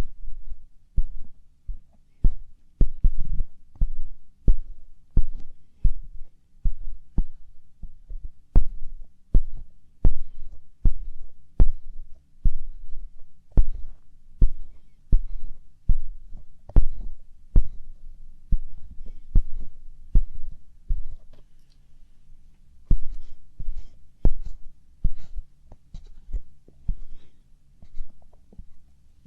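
Light-up ear pick scraping and tapping inside a binaural microphone's ear: uneven, close-up low thumps, each with a sharp click, about one or two a second.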